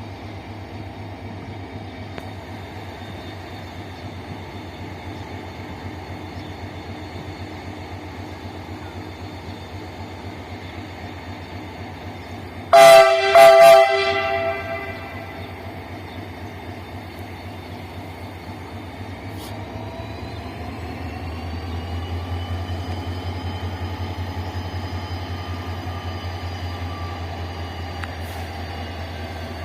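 Diesel locomotive engine running steadily, then two short blasts of its horn about 13 seconds in. From about 20 seconds the engine note rises and grows louder as the locomotive powers up to move the train.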